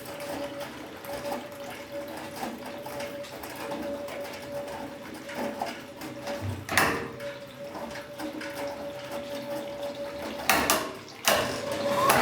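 Eudora B09 semi-automatic washing machine from 1956 running with water in it: water splashing over a steady motor hum, with a sharp knock a little past the middle and a couple more near the end. The machine runs again on its test after a repair of heavily damaged bearings.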